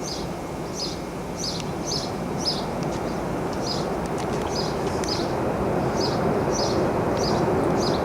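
Rushing wind noise, slowly growing louder, with a bird's short high chirps repeating about twice a second.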